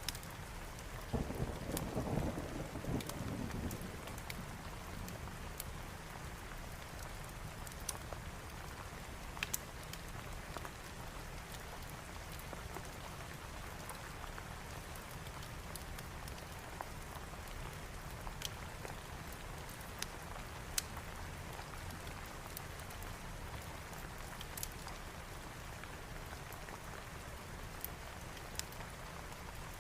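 Steady, even rain. A roll of thunder rumbles from about a second in and fades over a few seconds. Scattered sharp pops sound over the rain.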